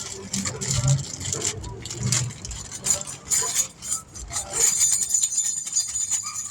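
Metal tools and brake parts clinking and rattling in a quick run of clicks and knocks, thickening into a rapid, dense clatter in the second half.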